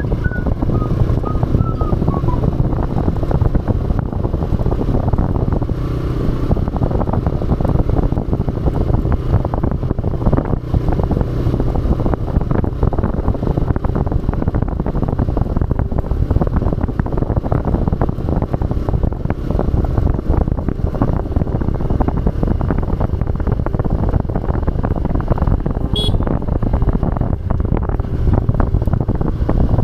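TVS Raider 125's single-cylinder engine running steadily as the motorcycle rides a rough trail, with wind on the microphone. A few short chirps sound right at the start and a brief high squeak near the end.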